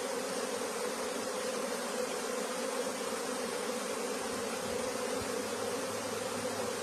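Large swarm of honeybees buzzing steadily as it moves into a new hive, a dense, even hum.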